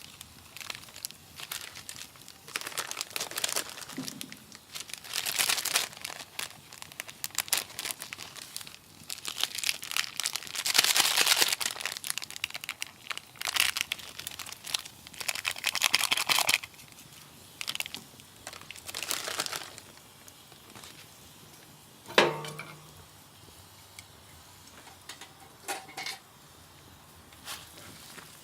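Plastic instant-noodle packet crinkling and rustling in irregular bursts as it is handled and torn open. About 22 seconds in comes a single sharp knock with a brief ring.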